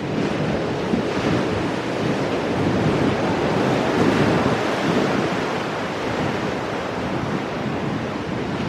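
Ocean surf breaking and washing over shoreline rocks: a continuous rushing that swells a little around the middle.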